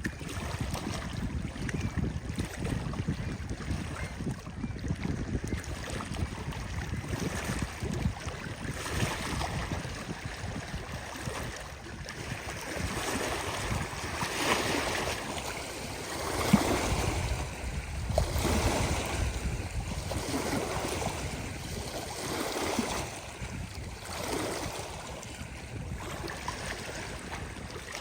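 Wind buffeting the microphone over small lake waves washing against the shore; in the second half the wash swells and falls about every two seconds.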